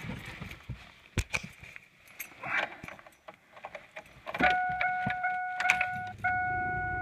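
Car keys jangling and clicking for the first few seconds. About four and a half seconds in, a steady high electronic tone comes on, broken by a few short gaps, and a low hum joins it near the end. This is the 1999 Chevrolet Cavalier being readied for a cold start.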